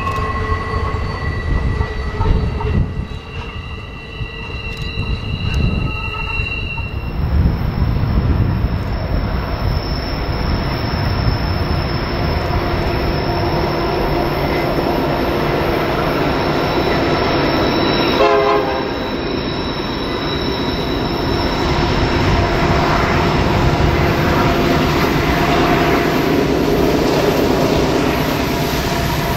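Freight train wheels squealing on a sharp curve, several high steady squeal tones over the rumble of the passing cars. About seven seconds in this gives way to Union Pacific diesel locomotives coming round a curve, their rumble growing louder toward the end along with more wheel squeal.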